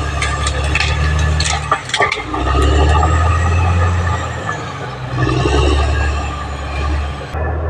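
Caterpillar D6R XL bulldozer's diesel engine working under load, its low steady note dipping briefly twice and coming back. Several sharp knocks and clatter sound in the first two seconds.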